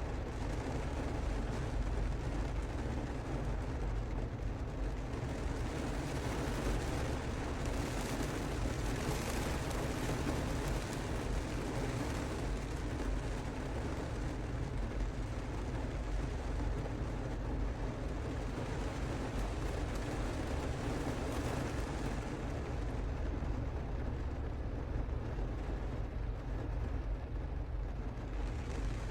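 Steady rain falling, with a constant low rumble underneath and a slightly stronger hiss from about seven to thirteen seconds in.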